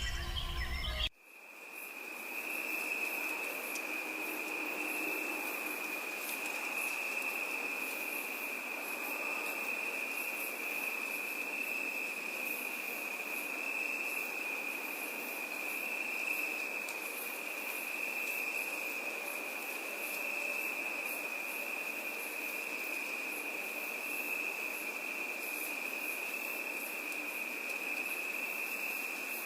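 Crickets trilling in one steady, unbroken high tone. This comes in after birdsong cuts off abruptly about a second in.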